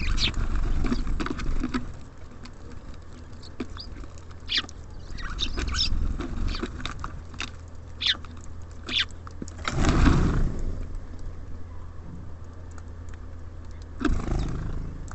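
Small birds such as tits and sparrows at a bird feeder: a scatter of sharp taps and clicks with short high chirps, and a louder rushing burst about ten seconds in and another near the end, over a low steady hum.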